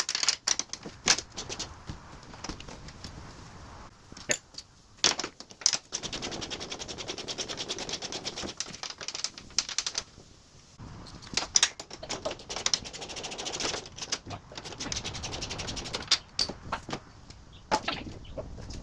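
Ratchet wrench clicking rapidly in runs of a second or two while bolts holding a panel are turned out, with sharp metallic knocks and clinks of tools and parts between the runs.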